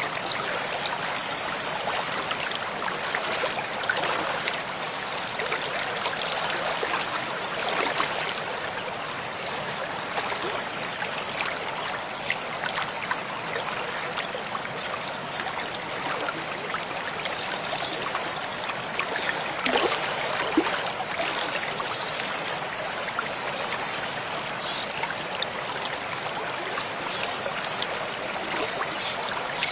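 Mountain stream flowing: a steady rush of splashing, trickling water, with a few sharper splashes about twenty seconds in.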